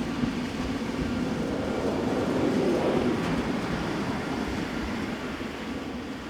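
A train running past on the line, a rumbling noise that swells briefly and then slowly fades away.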